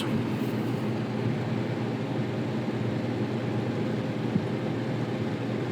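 Portable gas inverter generator running with a steady hum.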